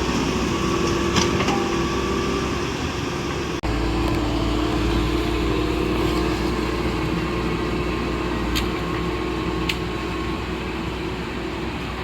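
Engine running steadily with a constant hum, broken by a sudden brief dropout about three and a half seconds in, with a few short sharp ticks.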